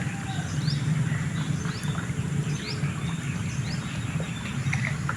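A bird repeating a short rising chirp about once a second, over a steady low rush.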